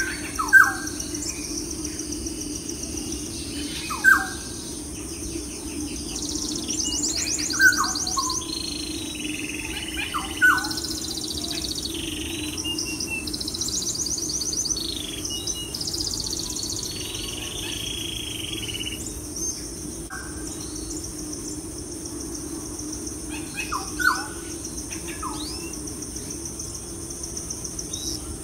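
Birds chirping: a sharp, falling call repeated five times at a few seconds' spacing, with higher buzzy trills between, over a steady low hum.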